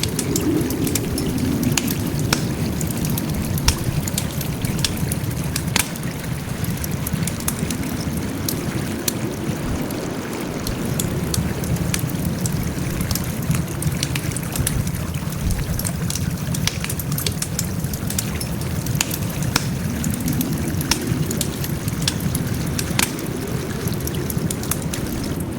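Wood fire crackling: frequent irregular sharp snaps and pops over a steady low rumble of burning.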